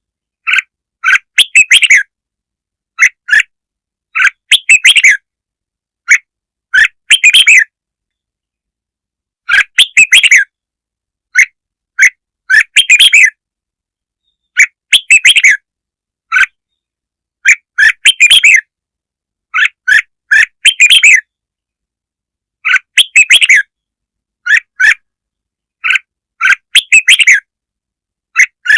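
Red-whiskered bulbul song played as a lure recording: short phrases of bright, chirping notes, one every second or two, with dead silence between them.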